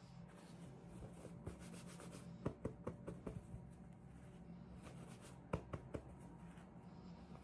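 Hands handling small packaging and toy pieces: faint rubbing with a few light clicks and taps in two short clusters, over a low steady hum.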